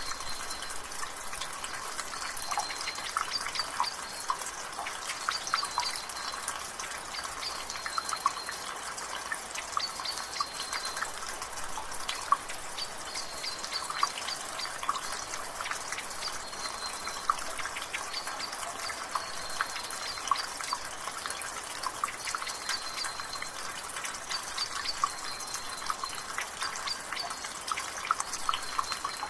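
Rainwater dripping and trickling from a gutter, a dense irregular patter of drips over a soft hiss of drizzle. A bird repeats a short high call every second or two in the background.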